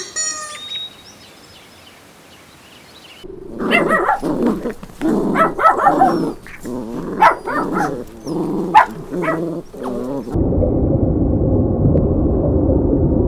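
Dog barking repeatedly in short barks and yips for about seven seconds. Near the end the barking stops and a steady low rumbling noise cuts in.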